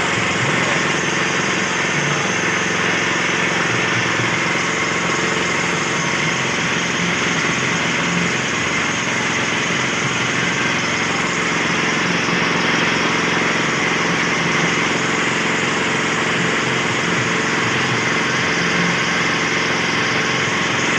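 Small engine of a homemade well-drilling rig running steadily at a constant speed, with no change in pitch or load.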